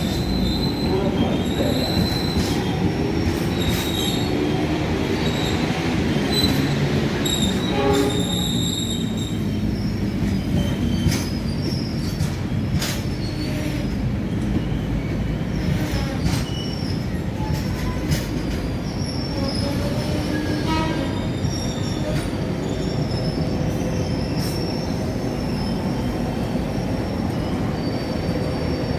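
A passenger train running along the station tracks: a steady rumble of wheels on rail, with high-pitched wheel squeal that comes and goes and scattered short clicks.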